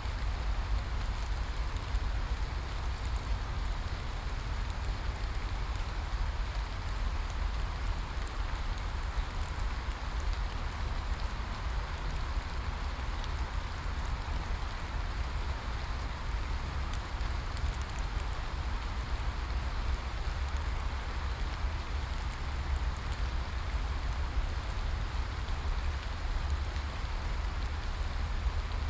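Steady rain falling: an even, unbroken hiss with a deep low rumble underneath and scattered light ticks of individual drops.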